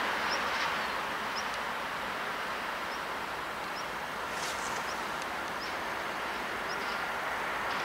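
Steady noise of a class 232 diesel locomotive and its hopper wagons running past at a distance, with short high bird chirps every second or so.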